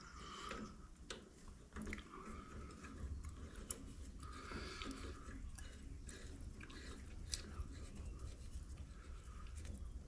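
A 5/16-24 hand tap cutting threads into brass: faint, irregular crunching and small clicks as the tap is turned and bites into the metal.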